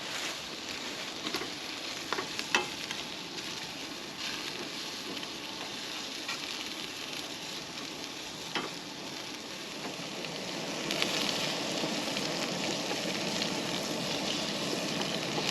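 Food sizzling as it fries in a skillet, with a few light clicks of a spatula stirring it. The sizzle grows louder about eleven seconds in.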